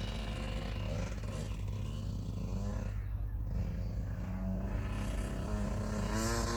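Motocross bike engine running, its note climbing and wavering over the second half.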